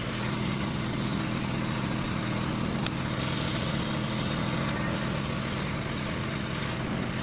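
An engine running steadily at a constant speed, an even hum with a faint high whine above it and a single faint click about three seconds in.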